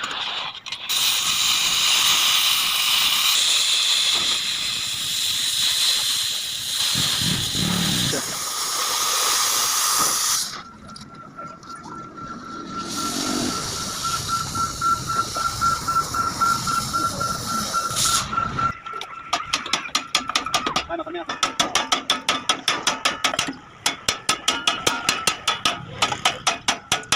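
Oxy-fuel gas cutting torch hissing steadily for about ten seconds, then a quieter stretch with a thin steady high tone, then rapid metallic tapping at several strokes a second.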